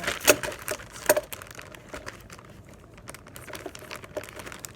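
Candle-making kit items being packed back into their box: packaging crinkling, with a run of sharp clicks and knocks that is loudest in the first second and then thins to light ticks.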